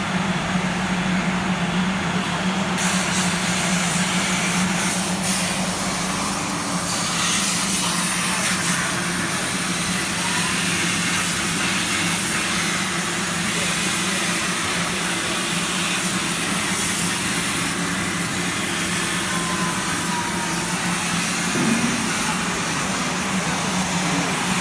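CNC plasma cutter cutting sheet metal: a steady hiss from the plasma arc starts about three seconds in and holds evenly, over a constant low machine hum.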